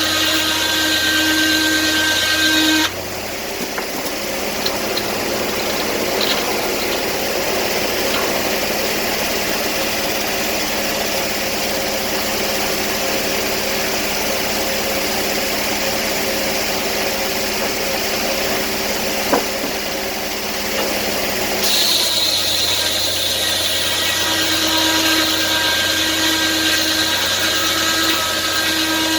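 Portable sawmill running, engine and saw steady. About three seconds in the even machine tone gives way to a noisier sound, and the even tone returns about twenty-two seconds in.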